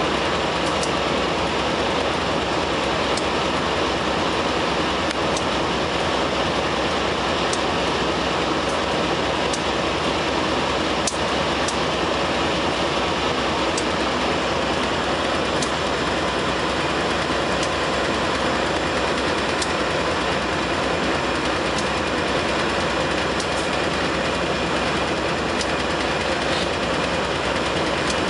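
Two AC44 diesel-electric locomotives hauling a container train past, a steady, dense engine and rolling noise with occasional sharp clicks.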